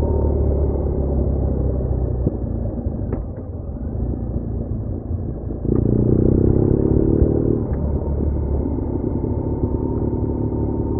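BMW R1200R boxer-twin motorcycle engine running on the road, easing off for a couple of seconds, then pulling harder about six seconds in before settling back to a steady cruise.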